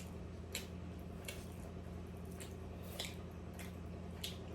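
Wet chewing and mouth smacks from someone eating steamed momos: short squishy clicks about once a second, over a steady low hum.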